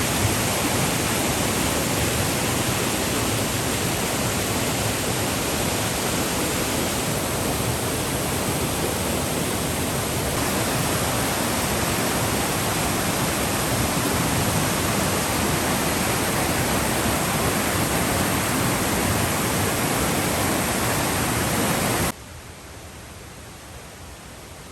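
Steady rushing of flowing water, like a stream or small waterfall. Near the end it drops suddenly to a much quieter hiss.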